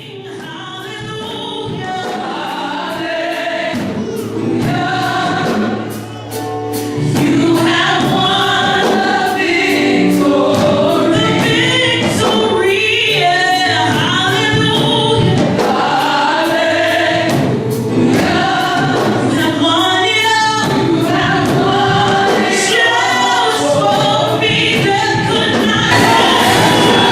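Gospel choir singing with instrumental accompaniment, fading in over the first several seconds and then holding steady.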